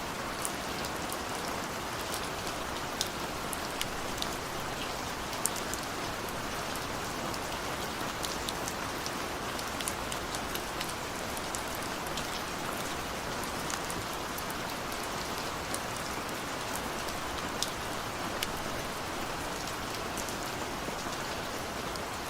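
Steady rain falling on a window pane: an even hiss dotted with many sharp little ticks of single drops striking the glass.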